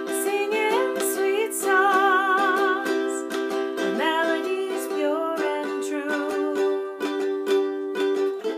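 Tenor ukulele strummed in a steady rhythm, playing the chords of a reggae song, with a high, wavering melody line over it in the middle of the passage.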